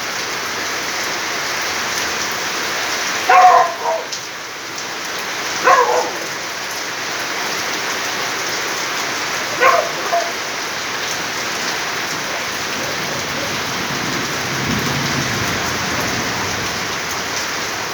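Heavy rain falling steadily, with a dog barking in three short bouts and a low rumble of thunder near the end.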